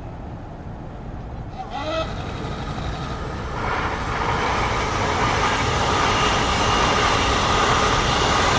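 A train's horn gives a brief toot about two seconds in. Then the train approaches, its rumble and wheel-on-rail noise growing steadily louder.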